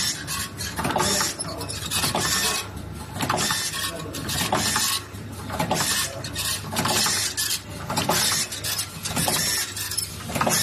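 Mini200 PVA pod-making machine running through its packing cycle: a hissing noise pulse roughly once a second over a steady low hum, with mechanical clicks and clinks.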